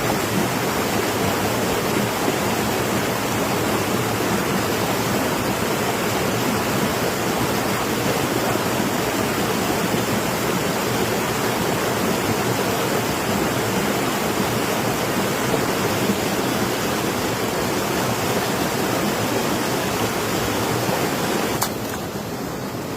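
Steady rush of flowing water, an even noise with no breaks; it drops in level and loses some of its hiss abruptly about a second before the end.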